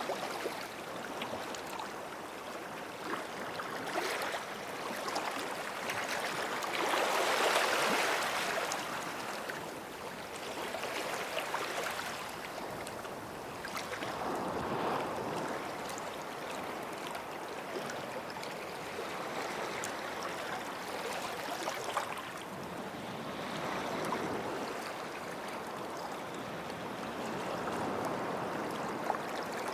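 Gentle sea waves washing onto a sandy beach. The surf swells and fades every few seconds, the biggest wash about seven seconds in.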